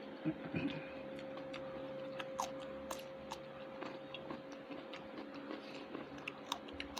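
Faint eating sounds: scattered small clicks and smacks of chewing, over a steady low hum.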